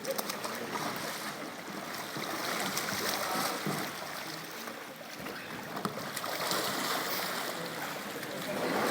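Water sloshing and splashing as a kayak is rolled over and back up in a swimming pool, swelling a couple of times.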